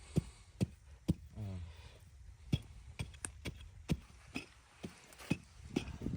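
A series of sharp knocks at uneven spacing, roughly two a second, with a brief voice about a second and a half in.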